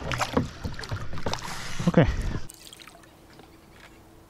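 Water splashing and sloshing at a canoe, with a voice saying "okay". About halfway through it cuts off suddenly to a quiet background with a faint steady hum.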